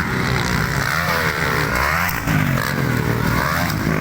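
Motocross bikes racing, their engines revving and falling back so that the pitch swoops up and down several times.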